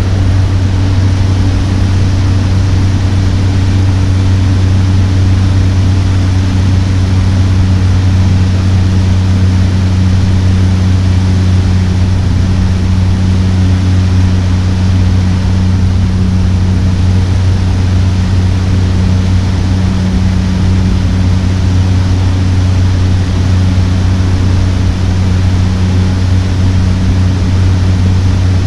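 Cessna 208 Caravan's PT6A turboprop engine and propeller droning steadily, heard from inside the cabin, with a strong low hum and a rushing hiss above it.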